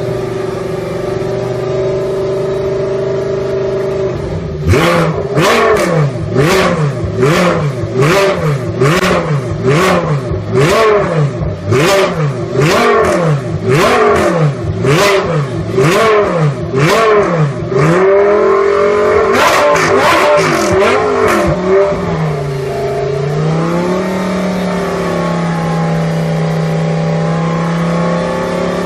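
Audi R8 LMS Ultra's 5.2-litre V10 idling, then blipped on the throttle over and over, a little more than once a second, each rev rising and falling with a sharp crack. A couple of quicker blips follow before it drops back to a steady idle.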